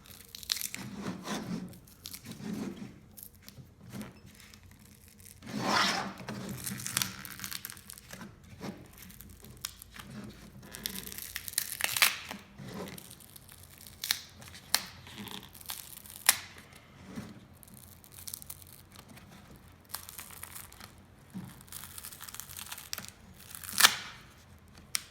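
Dried spray foam being peeled off a glass surface: irregular tearing and crackling, with sharp snaps now and then.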